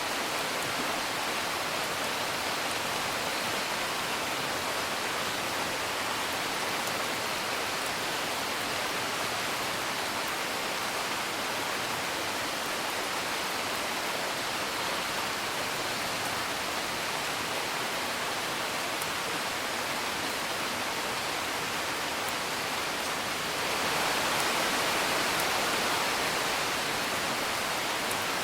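Steady rain hiss, with faint crackles of a wood fire ticking through it; the rain swells louder for a few seconds near the end, then eases back.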